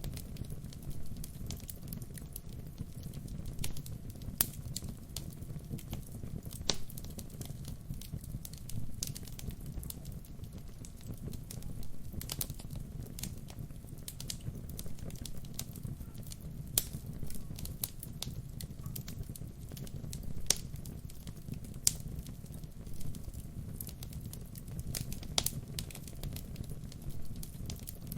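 Wood fire burning, with a steady low rumble and frequent irregular crackles and sharp pops of the burning wood.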